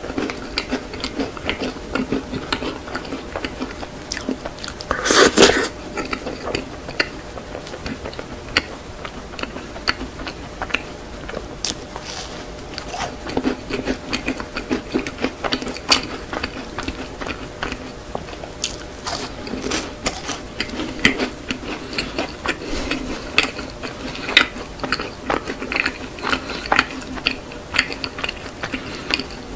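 Close-miked chewing of a macaron, with many small crisp crackles and clicks from the shell and one louder crunch about five seconds in.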